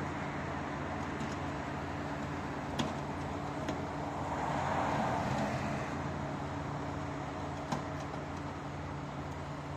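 A large vehicle engine idling steadily amid street traffic, with a sharp click about three seconds in and another near the end; traffic noise swells briefly in the middle.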